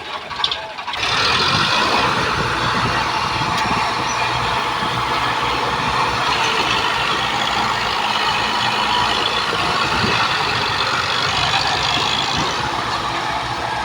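Tractor engine running loud and steady, coming in suddenly about a second in.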